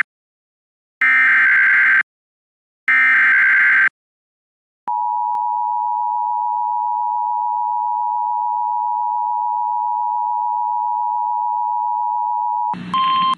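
Emergency Alert System tones: two shrill, warbling data bursts of about a second each (the end of the three-burst SAME header) announce an emergency alert. About five seconds in comes the two-tone attention signal, a steady harsh dual tone for about eight seconds, which is cut off by a brief burst of radio noise.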